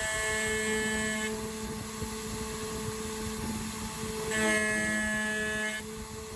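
Home-made CNC router's spindle running steadily while an end mill takes a finishing pass in 6082 aluminium. As the cutter engages it gives a high, ringing multi-tone whine twice: for about the first second, and again for about a second and a half starting four seconds in.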